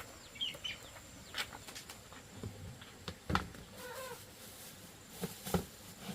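A cat meowing briefly twice, with several sharp knocks in between.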